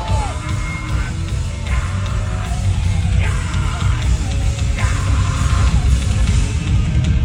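Heavy metal band playing live at loud volume, a dense wall of distorted guitar, bass and drums, with yelling over the top.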